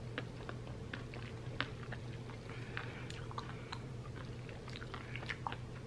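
Wet chewing and lip smacks of someone eating soft, partly melted ice cream: many small irregular clicks over a steady low hum.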